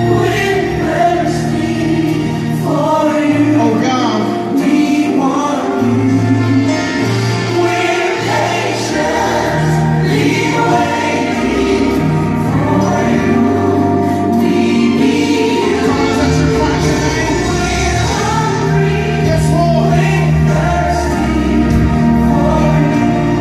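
Gospel song with a choir singing over a steady band backing and bass.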